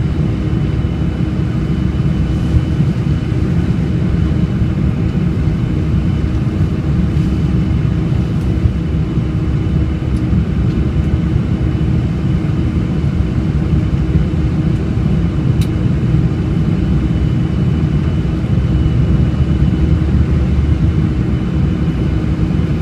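Boeing 747-400 jet airliner's engines and rushing air, a loud, steady deep rumble with a faint steady whine over it.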